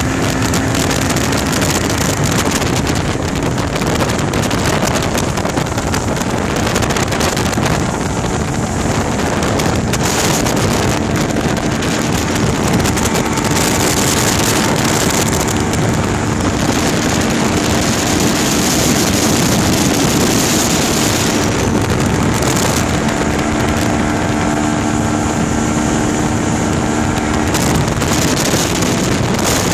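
Suzuki DT140 two-stroke V4 outboard motor running at steady speed, a constant drone, with wind buffeting the microphone.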